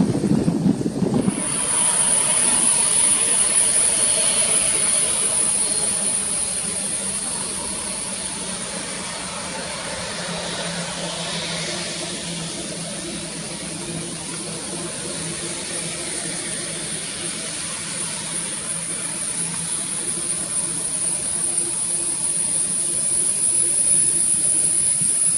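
Boeing 787 Dreamliner jet engines running with a steady noise and a strong high whine that sets in about a second in. A short low rumble comes at the very start.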